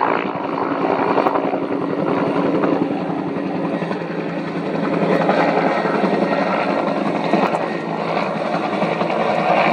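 Bell UH-1N Huey helicopter flying a practice approach: steady rotor chop over turbine noise.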